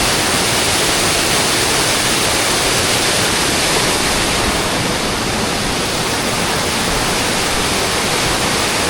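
Steady rush of a tall travertine waterfall close by: water pouring down Zhaga Waterfall's calcified cliff.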